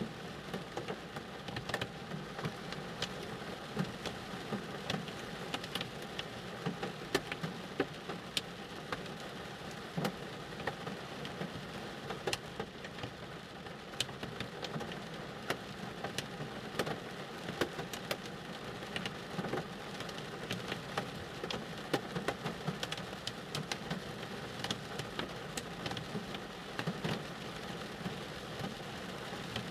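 Rain falling on a car, heard from inside the cabin: a steady patter of raindrops with many irregular sharper drop ticks, over a steady low hum.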